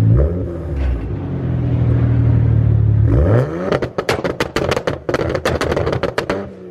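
BMW 335is N54 twin-turbo inline-six revving through a custom 2.5-inch straight-back exhaust with X-pipe and two resonators. The revs rise and fall, then climb and hold high for about three seconds with a rapid run of sharp exhaust pops, about six a second, before dropping back.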